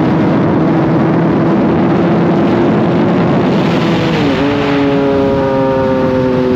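Kawasaki sport motorcycle engine running at speed under heavy wind rush, its note slowly rising. About four seconds in the note drops sharply and carries on lower.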